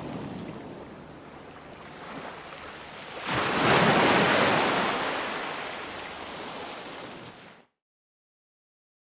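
Ocean surf: a wave breaks about a third of the way in and washes out, slowly fading. Near the end the sound cuts off abruptly to complete silence.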